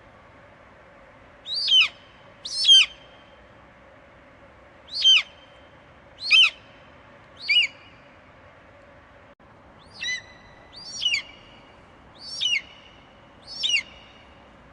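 An eagle screeching: nine short, piercing calls, each sliding sharply downward in pitch, given at irregular intervals over a faint steady hiss.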